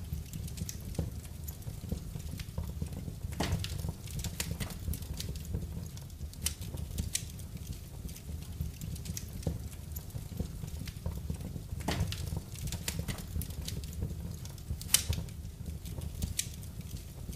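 Wood fire burning in a fireplace, crackling with irregular sharp pops over a steady low rumble; the loudest pop comes near the end.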